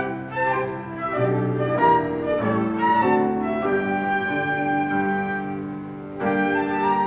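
Slow instrumental ensemble music: a flute carrying a sustained melody over piano accompaniment, with some bowed strings.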